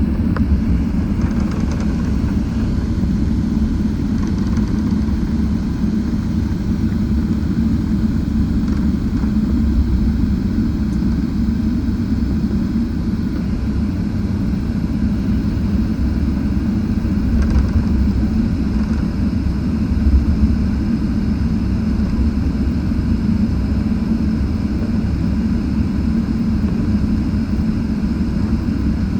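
Boeing 777-300ER's GE90-115B jet engines running, a steady, deep, even rumble with no change in pitch.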